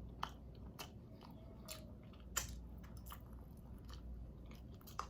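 A person chewing shrimp and vegetables close to the microphone: faint wet mouth sounds and soft crunches, with a sharper click a little over two seconds in.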